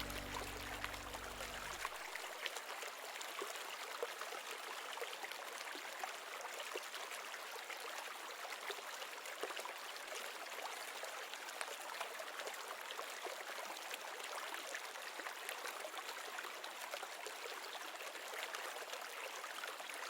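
Steady trickling, splashing water with many small ticks. Music with low sustained notes ends about two seconds in.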